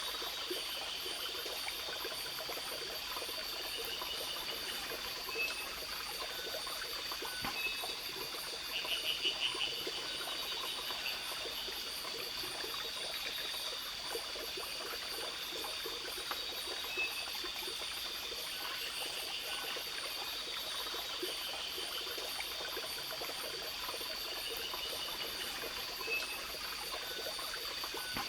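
Tropical forest ambience: a stream trickling under a steady high insect buzz and rapid, even insect ticking. A few short pulsed trills break in now and then.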